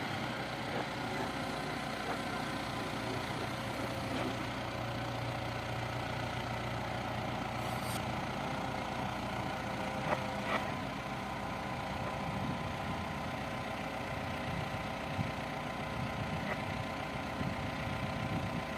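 Heavy earthmoving machine's diesel engine running steadily, with a couple of faint knocks about halfway through.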